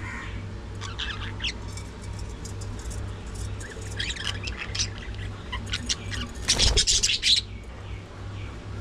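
Budgerigars chirping and squawking in short scattered bursts, with a louder flurry of squawks about three-quarters of the way through, over a steady low hum.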